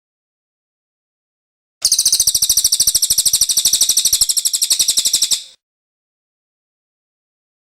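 Cililin songbird singing one fast, even trill of high notes, about a dozen notes a second. It starts about two seconds in and stops after about three and a half seconds.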